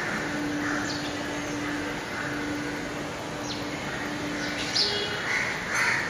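Birds chirping: a few short, sharp high chirps scattered through, over a steady low hum and background noise.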